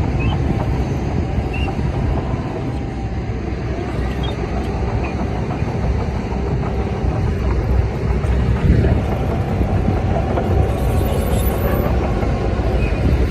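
Heavy diesel earthmoving machinery running steadily, a continuous deep engine rumble.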